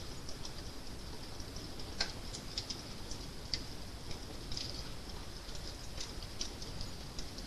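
Fire crackling: irregular small snaps and pops over a low steady rumble, with one louder crack about two seconds in.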